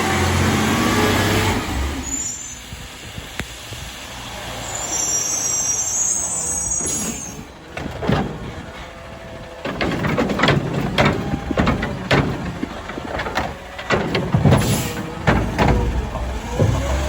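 CNG Autocar ACX garbage truck with its engine running, then a short air hiss. From about ten seconds in come a dense run of sharp clanks and bangs from the McNeilus Curotto Can arm working a yard-waste cart.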